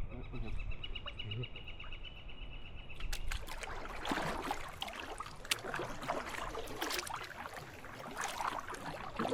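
Kayak paddle dipping and pulling through the water, with irregular splashes and drips. Over the first few seconds a fast, even trill holds one high pitch, from a bird or insect, then gives way to the paddling.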